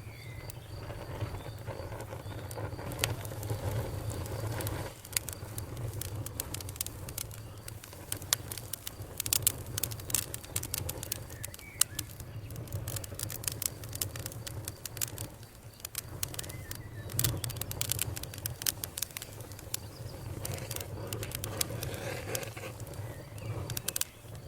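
Campfire crackling, with many sharp pops and snaps over a steady low rumble of burning wood. A high, steady cricket trill stops about a second in.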